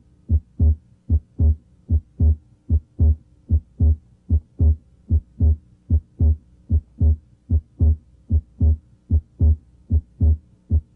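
Human heart sounds heard over the left third intercostal space: a regular lub-dub, S1 and S2 in pairs a little under one pair a second (about 75 beats a minute). The second sound here carries both its aortic (A2) and pulmonic (P2) components, which may be heard separately, with the patient breathing deeper than normal.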